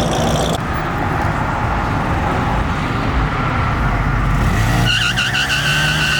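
Honda Grom minibike doing a burnout: engine running, and about five seconds in its rear tyre breaks into a high squeal that wavers briefly, then holds steady.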